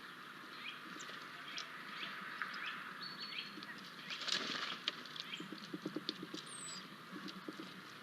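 Small birds chirping at a bird feeder, many short downward-sliding calls, over runs of quick light taps. A flurry of wing flaps about four seconds in.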